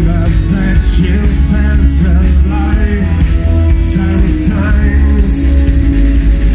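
Live band music played loud: heavy steady bass and drums with cymbal hits every second or so, and a melodic line winding over the top.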